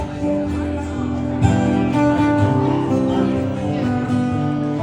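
Acoustic guitar strummed and picked between verses of a country song, with strums landing about one and a half seconds and two seconds in.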